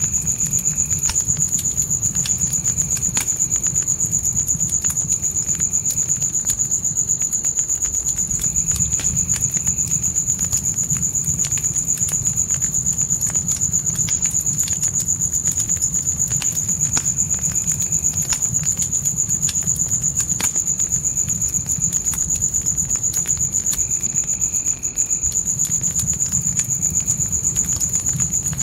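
Crickets chirping in a steady, rapid, high-pitched trill over a wood fire crackling, with scattered pops and a low rumble from the flames.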